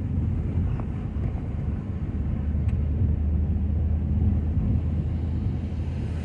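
Ford F-250 pickup engine running with a steady low rumble, with a couple of faint ticks.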